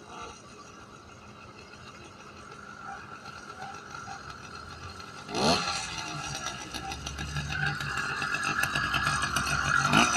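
Small two-stroke engine on a motorized bicycle running cold, growing steadily louder as it comes closer. About five seconds in it revs up sharply with a rising pitch, then runs on with a rapid, rattly firing.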